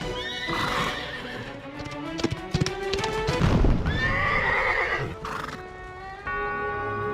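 Horse sound effects over background music: a horse neighs twice, with hooves galloping.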